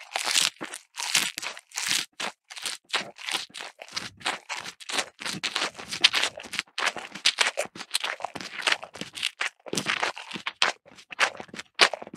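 A rapid, irregular series of crunching, crackling noises, several a second, like dry, brittle material being broken, cut or crumpled by hand.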